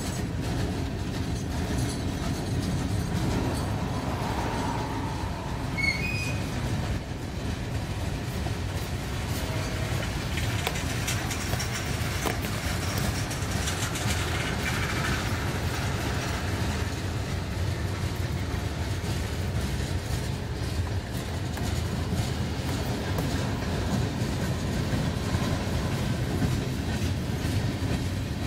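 Freight train cars rolling past with a steady rumble and clatter of wheels on the rails, with a few brief, faint wheel squeals.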